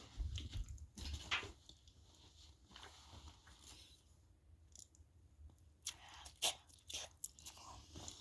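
Faint chewing and mouth sounds of someone eating soft scrambled eggs with chicken, with a few small clicks scattered through.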